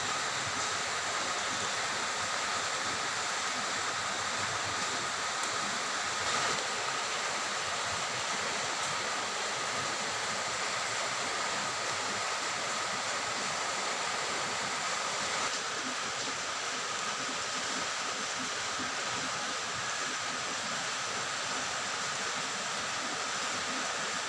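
Steady rain falling, an even hiss with faint steady high tones under it and a single light knock about six seconds in.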